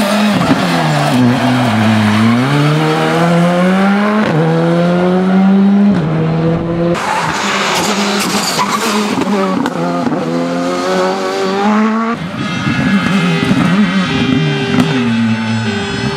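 Rally car engine driven hard: the revs climb and then drop sharply at gear changes, with the pitch falling away under braking in between.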